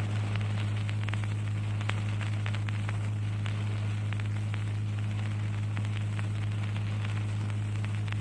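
Steady low electrical hum with scattered crackling clicks and hiss: the background noise of the recording or its sound system, with no voice.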